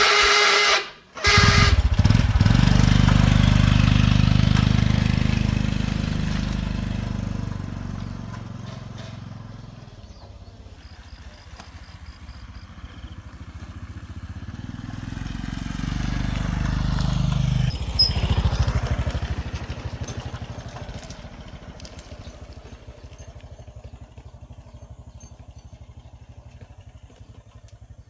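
A small engine running loudly, fading away over several seconds, swelling again, then cutting off sharply and dying away, like a motor vehicle passing by.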